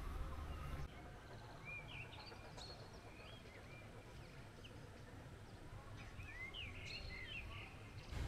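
Small birds chirping in two short bouts of quick rising-and-falling chirps over a faint outdoor background hiss. A low rumble stops abruptly about a second in.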